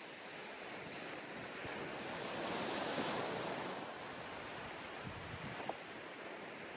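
Sea surf breaking and washing up a beach, a wave swelling to its loudest about halfway through and then easing back.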